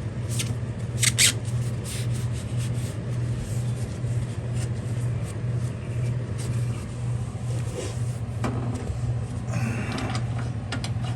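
A steady, low mechanical hum that pulses evenly, from a running motor or engine, with a few light clicks and rubbing noises from handling near the end.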